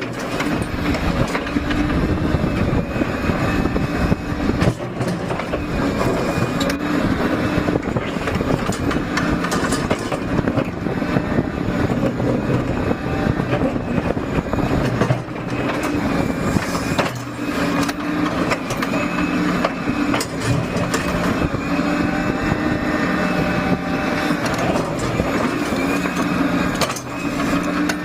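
Liebherr hydraulic excavator working: its diesel engine runs steadily under load, the note dipping briefly a few times, with occasional knocks.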